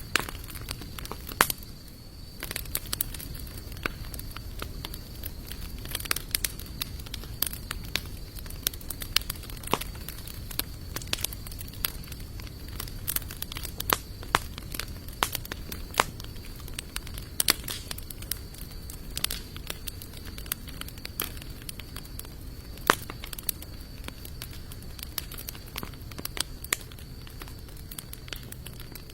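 Wood campfire of sawtooth oak and mixed hardwood logs crackling, with frequent irregular sharp pops and snaps. The loudest pops come about a second and a half in and near 23 seconds. A faint steady high-pitched tone runs underneath.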